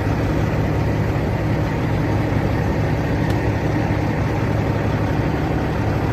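Vehicle engine idling, a steady low hum with no change in speed.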